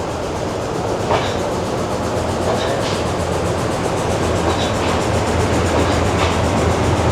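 Commuter train running on rails: a steady low rumble with a few light clacks from the wheels and cars, growing slightly louder toward the end.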